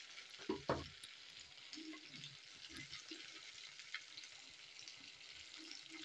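Masala-coated idli pieces deep-frying in hot oil: a faint, steady sizzle, with two soft knocks about half a second in.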